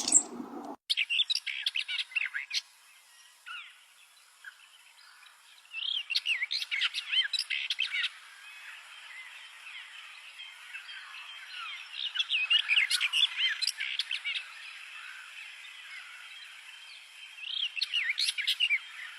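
Bluethroat singing: four phrases of rapid, varied, high chirping notes with short pauses between them.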